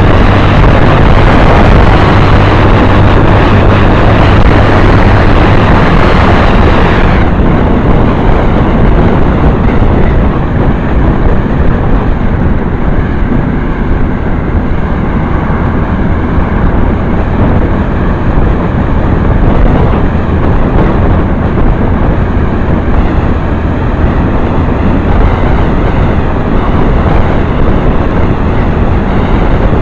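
Motorcycle riding: the engine running under heavy wind rush on the camera's microphone, loud throughout. About seven seconds in, the high hiss drops away and the sound turns duller.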